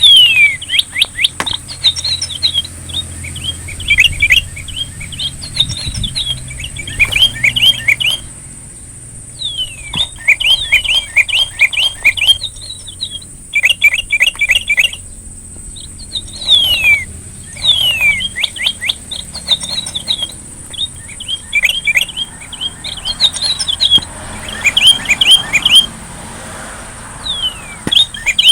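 Songbird singing: repeated phrases of quick chirps and downward-sliding whistles, with short pauses between, over a steady thin high-pitched whine.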